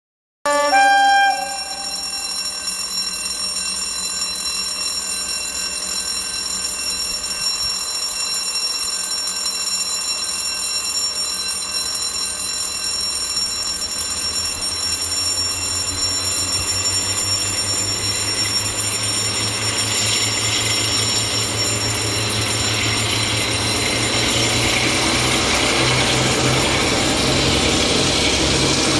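Diesel locomotive engine running with a steady high-pitched turbocharger whistle, getting gradually louder as a deeper engine hum builds in, with a brief louder tone about a second in.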